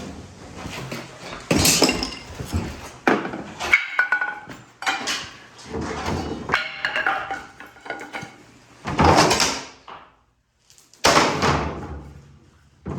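Workshop handling noise from lumber being moved and set down: a string of irregular knocks, thuds and short scrapes, every second or two.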